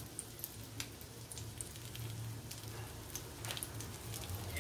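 Soft sizzling of ghee around semolina-and-flour roat patties shallow-frying in a pan, with many small pops and crackles over a low steady hum.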